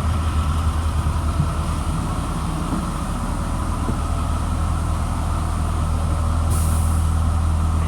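2004 Blue Bird All American school bus engine idling steadily, with a short hiss about six and a half seconds in.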